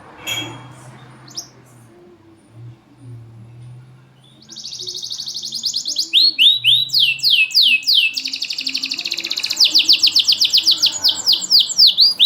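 Domestic canary singing. After a quiet start with a couple of short calls, a loud, fast trill sets in about four seconds in and runs into quick repeated down-slurred notes, several a second, with almost no pauses.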